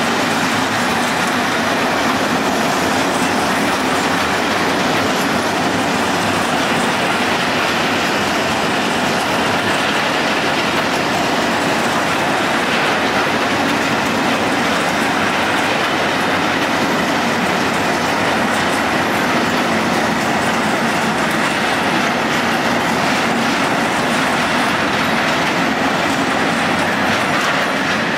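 A long freight train of covered hopper wagons rolling past close by. Its wheels make a steady, loud clatter and rumble on the rails.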